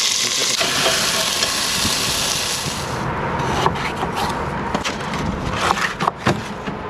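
Salmon fillets sizzling as they fry in oil, a steady hiss that cuts off about three seconds in. Scattered light clicks and scrapes follow.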